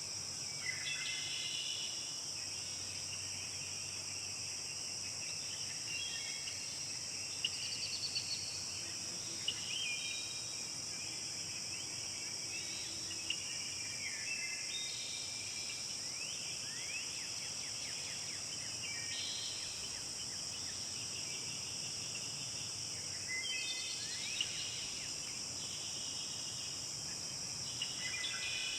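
Forest ambience: a steady, high-pitched chorus of insects, with birds singing short chirping and trilling phrases every few seconds.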